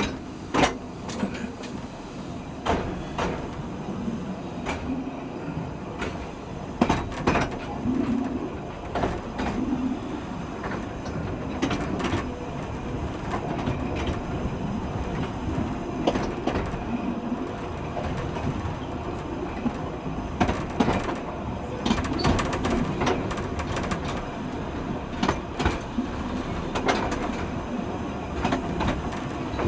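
Narrow-gauge train running along the track: a steady rumble of wheels on rail with irregular sharp knocks and clicks.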